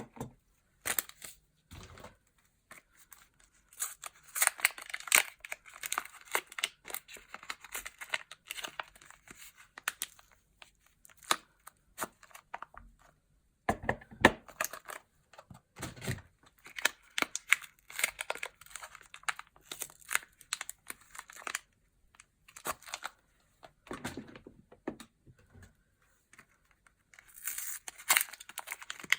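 Soap wrappers being torn open and crinkled by hand, in irregular bursts of rustling and tearing with short pauses between.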